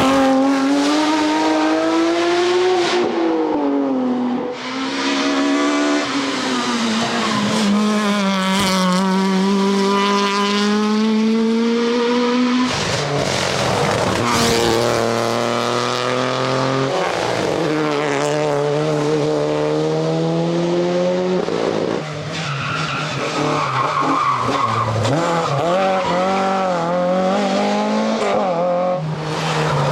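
Rally cars driven flat out, several in turn: engines revving high, the pitch climbing through each gear and dropping at the shifts and under braking.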